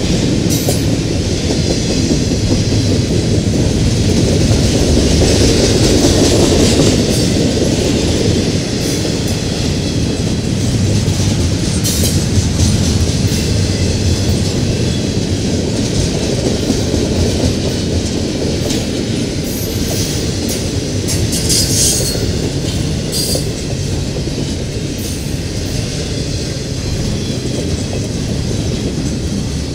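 Double-stack container well cars of a long intermodal freight train rolling past at close range: a steady loud rumble and clatter of steel wheels on rail. A few brief high-pitched wheel squeals come about halfway and again around two-thirds through.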